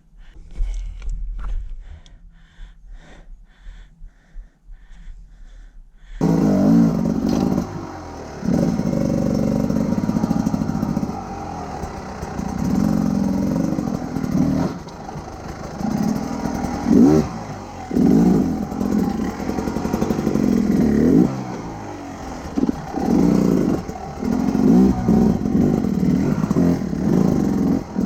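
Big adventure motorcycle's engine being ridden with the throttle opened and closed again and again, the revs rising and falling every second or two. The engine sound comes in abruptly about six seconds in, after a stretch of lighter clicking and clatter.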